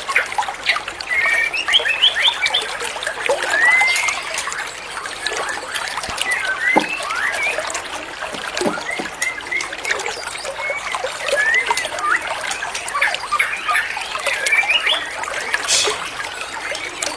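White-rumped shama singing in bursts of rising slurred whistles and quick twittering phrases, over a steady trickle of running water.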